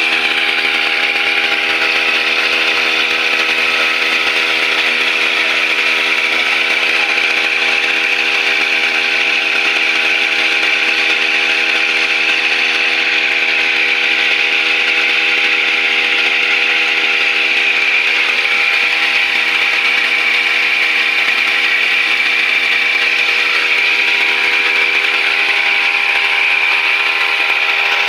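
Brush cutter (grass-cutting machine) engine running at a steady high speed, a constant hum with a strong hiss over it and no change in pitch.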